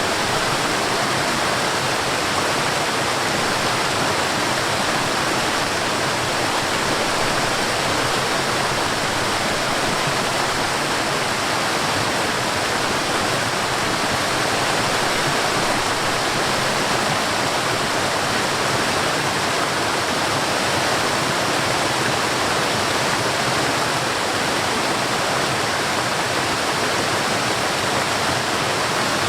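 Forest waterfall: water falling and rushing in a steady, unbroken hiss with no change over time.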